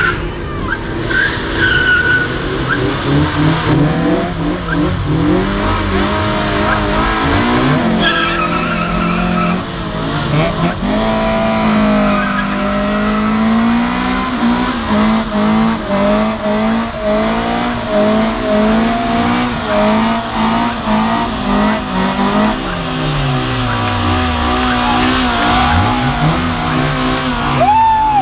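Two Honda Civics doing a burnout together: engines held at high revs with the tyres spinning and squealing. The revs drop and climb again a couple of times near the end.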